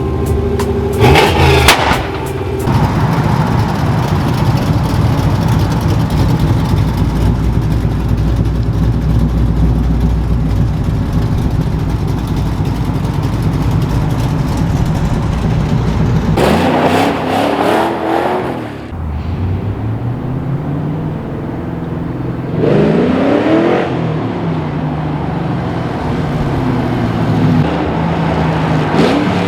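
Cammed 1998 Mustang GT 4.6 V8 exhaust. It runs hard in a long steady stretch, then drops to a choppy, lumpy cam idle. It revs up sharply twice, around the middle and a few seconds later, falling back to the loping idle each time.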